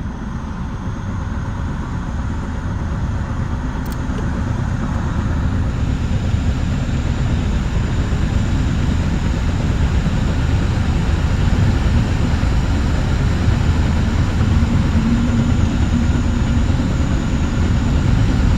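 Low, steady running rumble of a Metra bi-level commuter cab car rolling along the track, heard from inside the car, growing gradually louder.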